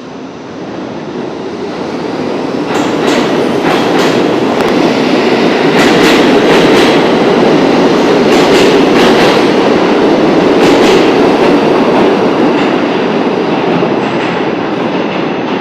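R68A subway train pulling out of a station, its running noise swelling to a loud rumble over the first few seconds. Sharp clicks from the wheels over rail joints come through the middle, and the noise eases off slightly near the end.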